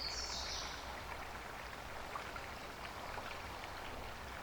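Creek water running: a faint steady rushing with small scattered trickling ticks. A short high-pitched chirp sounds right at the start.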